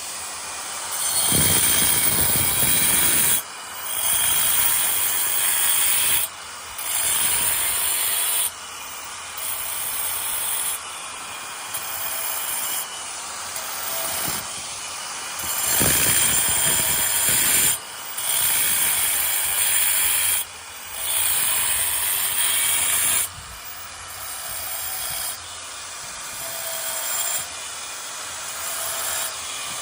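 Power chipping hammer driving a 40 mm scaling chisel into tiles to chip them off the wall. It runs in repeated bursts of two to three seconds, each cut off abruptly, with short pauses between them.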